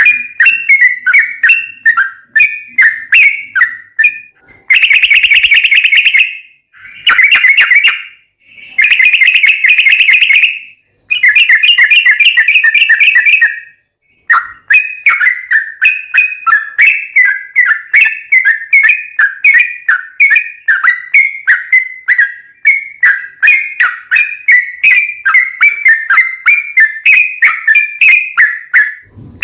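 Yellow-vented bulbul (trucukan) singing a long, rapid run of short bubbling chirps, loud and close. Between about five and thirteen seconds in it breaks into four dense, fast trills, each a second or two long with short pauses between.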